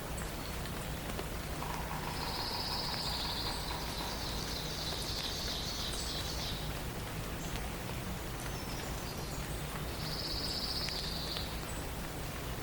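Forest morning ambience: a steady hiss with two high, fast trills from a songbird, the first starting about two seconds in and running some four seconds, the second about ten seconds in and shorter.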